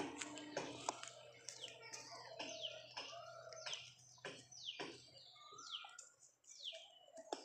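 Birds chirping over and over with short calls that slide downward, mixed with sharp clicks and cracks from a dog gnawing a bone.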